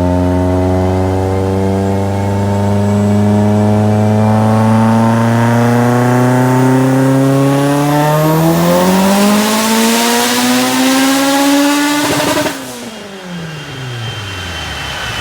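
Car engine revving up in one long, smooth pull, its pitch climbing steadily for about twelve seconds. Just past twelve seconds the throttle closes with a short burst of noise, and the revs fall away.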